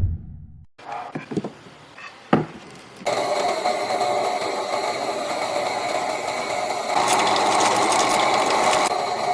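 A few light knocks, then a small electric motor starts about three seconds in and runs steadily with a whine, getting a little louder near the end.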